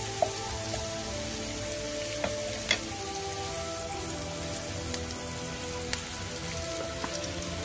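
Minced garlic and sliced shallots sizzling in hot oil in a pan, a steady hiss with a few sharp taps of a wooden spatula. Soft background music plays underneath.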